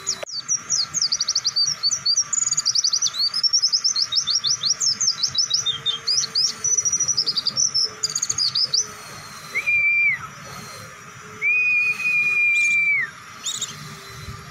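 White-eye (pleci) singing a long, fast run of high chattering notes for about nine seconds: the rapid-fire 'bren' song. It is followed by two level whistles, the second longer, and a few short chirps near the end.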